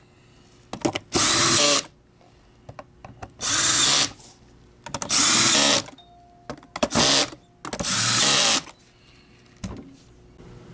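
Power drill driving steel machine screws down into an aluminum cover, running in five short bursts of about a second each, with small clicks between them.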